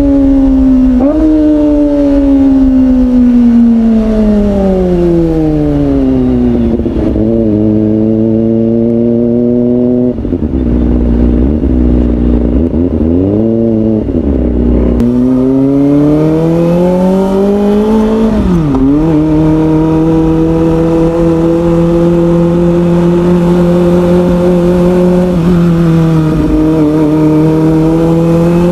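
Kawasaki Ninja ZX-25R's small four-cylinder engine through an Orion aftermarket exhaust, slowing down with a few quick throttle blips and running low for several seconds. It then pulls away with rising revs, drops briefly at a gear change, and holds a steady cruise.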